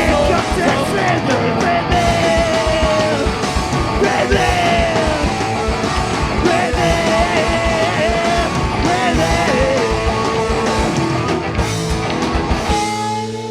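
Live rock band playing loudly, drums and guitars driving, with some shouted vocals. Near the end the drums stop and the band lets a final chord ring out to close the song.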